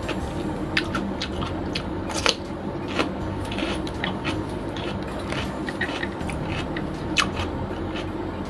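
Close-miked eating: a person chewing and biting raw red bell pepper, with a run of short, sharp crunches, the loudest about two seconds in, over a steady low hum.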